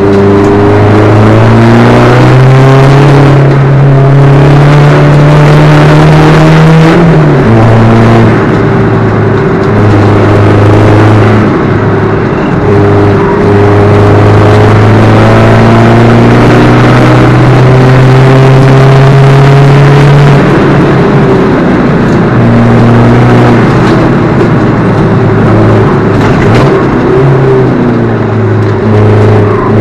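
Alfa Romeo 147's 1.9 JTD four-cylinder turbodiesel engine running hard at competition pace. Its note climbs and drops sharply at gear changes about seven seconds in and again about twenty seconds in, then rises and falls unevenly before climbing again near the end.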